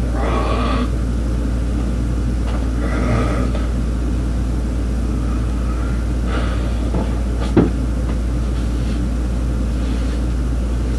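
Steady low hum, with a few short scraping handling sounds and one sharp click about seven and a half seconds in, as a line is marked across a board with a T-square and marker.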